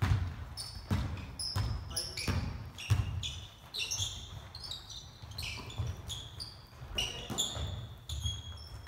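A basketball bouncing on an indoor court, with sharp thuds about once a second ringing in the hall, and many short high squeaks from sneakers on the floor.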